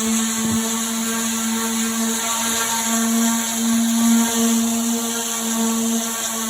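Electric sander running with a steady hum, sanding down the painted metal-clad tabletop to prepare it for repainting.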